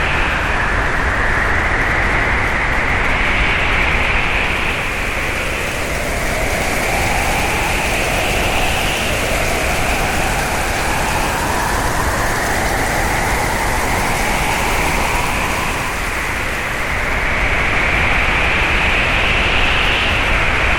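Hurricane wind howling: a loud, steady rush with whistling tones that slowly rise and fall in pitch.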